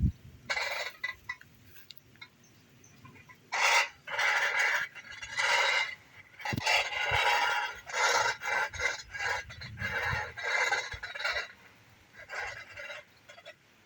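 Repeated harsh, squawking bird-like calls, about a dozen of them, each lasting half a second to a second with short pauses between, and a longer gap near the start.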